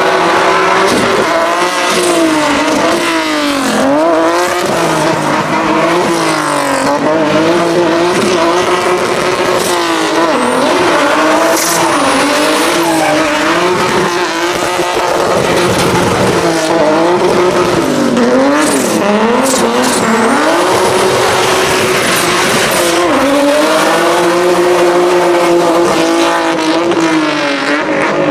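A sprint rally car's engine running at high revs, its pitch dropping and climbing again over and over as the throttle is lifted and reapplied, with tyres squealing.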